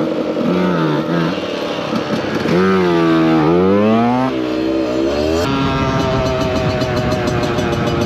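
Two-stroke supermoto motorcycle engine being revved on and off. The pitch rises and falls several times, with one long rev up and back down about three seconds in. About five seconds in the sound cuts abruptly to a steadier, higher-pitched running.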